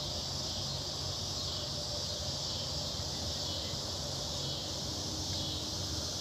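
Steady outdoor chorus of insects (crickets or similar), an unbroken high buzzing trill, with a faint low hum beneath it.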